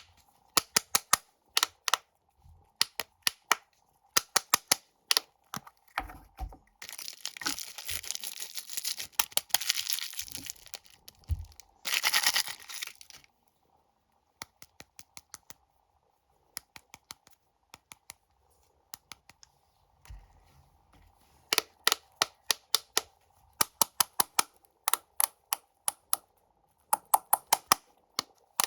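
Snack packaging being handled: bursts of quick, sharp tapping on the wrappers, with a stretch of crinkling and tearing as a wrapper is opened from about seven to thirteen seconds in.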